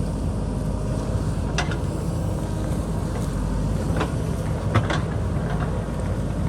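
JCB backhoe loader's diesel engine running steadily, with a few sharp knocks and clanks of the machine at work, the loudest about three-quarters of the way through.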